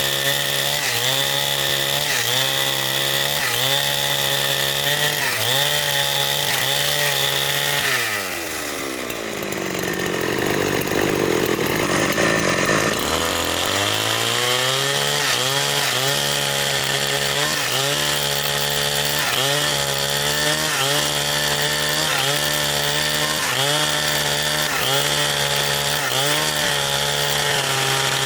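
Chainsaw running under load while cutting wood, its pitch sagging in a regular rhythm with each push into the cut. About eight seconds in the engine drops to a low idle, then revs back up to cutting speed some five seconds later.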